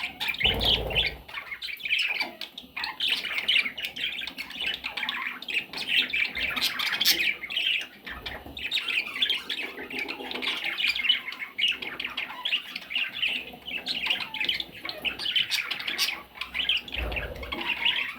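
Parrot chicks squawking and chirping in a continuous, overlapping chatter, with a low bump just after the start and another near the end.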